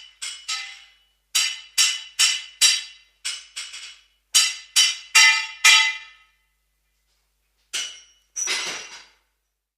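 A blacksmith's hammer striking metal: about a dozen sharp, ringing clinks in quick groups, then a pause, a single strike and a longer grating metallic sound near the end.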